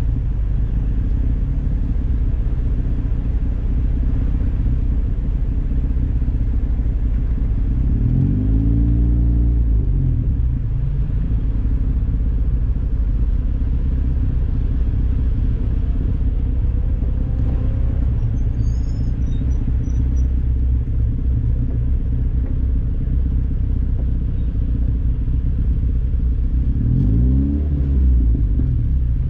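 Turbocharged 1999 Mazda Miata's 1.8-litre four-cylinder engine heard from inside the open cockpit, running steadily at low revs under a heavy rumble of wind and road noise. The revs rise and fall back twice, about a third of the way in and near the end.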